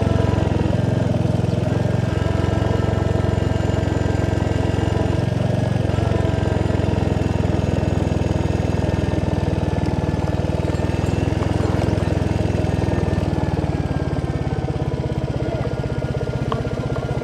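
Royal Enfield Hunter 350's single-cylinder engine running steadily under way, with an even low pulsing beat that eases off slightly near the end.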